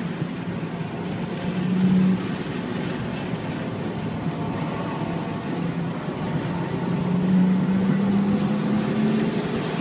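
BMW 335i's turbocharged 3.0-litre straight-six heard from inside the cabin under track driving, over road and wind noise. The engine note climbs, drops sharply about two seconds in, then runs steady before climbing again through the last few seconds as the car accelerates down the straight.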